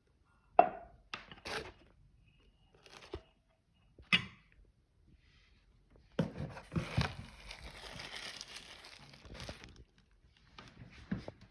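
Parcel packaging being handled and opened: a few knocks and rustles of cardboard, then about three seconds of continuous tearing of packaging, with more rustling near the end.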